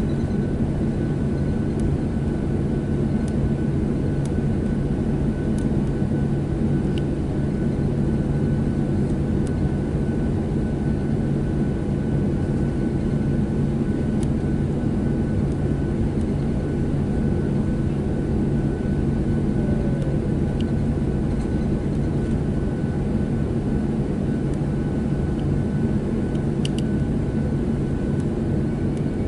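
Steady cabin drone inside a Boeing 737-700 on the ground after landing: the CFM56 engines are at idle, with a constant low hum and a few steady tones, plus the odd faint click.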